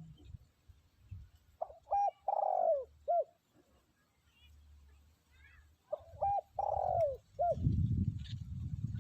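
Spotted dove cooing its territorial song: two phrases about four seconds apart, each a few short coos around one longer, drawn-out coo that falls at the end. A low rumbling noise comes in after the second phrase.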